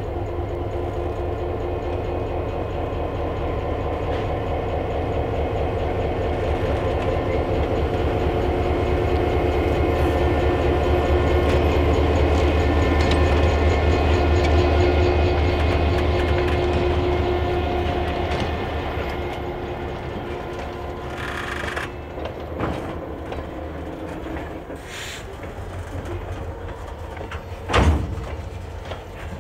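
EMD GP9 diesel locomotive's two-stroke engine running as it crawls past pulling a freight train. Its drone builds to a peak about halfway through, then fades as it moves away. Freight-car wheels then knock over the rail joints of rough, poorly maintained track, with a loud clunk near the end.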